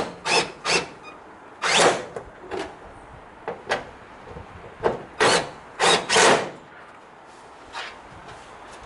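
Irregular sharp clanks and knocks, about a dozen, some in quick pairs, of tools and metal parts being handled while working on a truck's engine.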